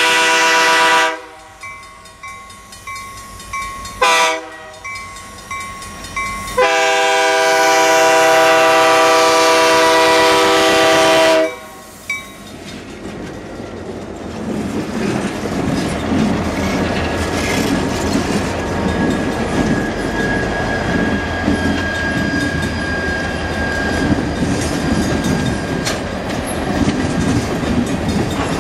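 EMD F-unit diesel locomotive's air horn ending a grade-crossing signal: a long blast that stops about a second in, a short toot about four seconds in, and a final long blast of about five seconds. Then the locomotives and a string of tank cars roll past with a steady rumble and the clickety-clack of wheels over rail joints.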